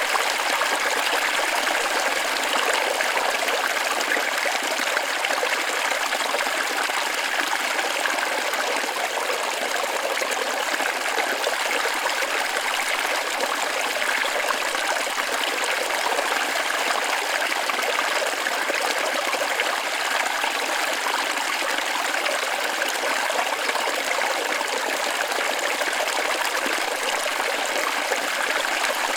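Waterfall running steadily: an even, unbroken rush of splashing water.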